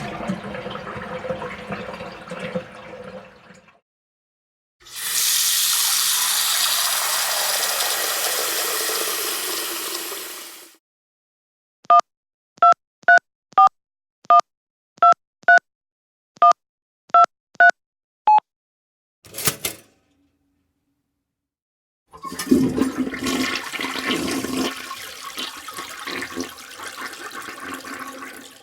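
A string of household sound effects. A toilet flushes with a loud rushing hiss lasting about six seconds. Then eleven short two-tone telephone keypad beeps dial a number. Other unidentified household noises come before and after.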